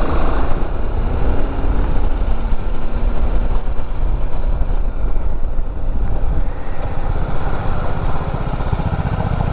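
BMW G310GS motorcycle's single-cylinder engine running under way, settling into an even, low pulsing near the end as the bike slows.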